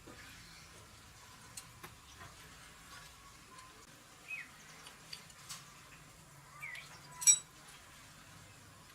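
Sparse small metallic clicks and taps of hand work on metal parts, with one sharper clink that rings briefly just after seven seconds in. Two brief chirps come about four and a half and six and a half seconds in.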